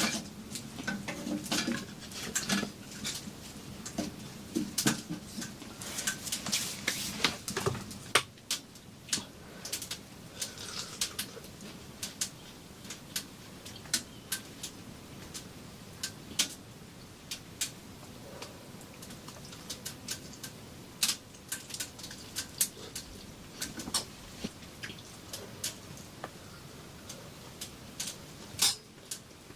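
Irregular light clicks and taps, close together with some rustling in the first several seconds, then sparser single clicks.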